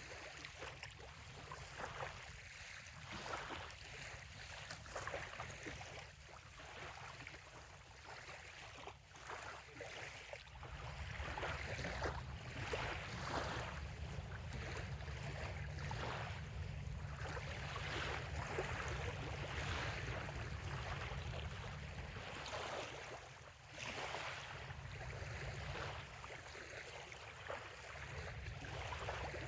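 Small waves lapping at a sandy bay shoreline in a run of soft, irregular splashes. Underneath is a steady low rumble that grows louder about ten seconds in.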